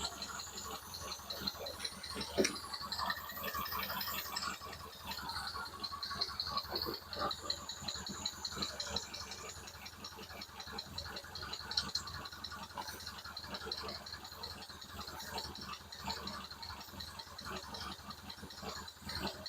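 Ford 2.0 Pinto four-cylinder engine, freshly installed, ticking over at idle with a fast, even rattling tick over a steady low hum.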